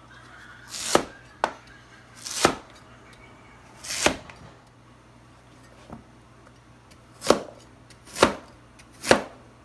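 Kitchen knife cutting a peeled taro into small pieces on a cutting board: six firm cuts at an uneven pace, each ending in a sharp knock on the board, with a couple of lighter taps between them.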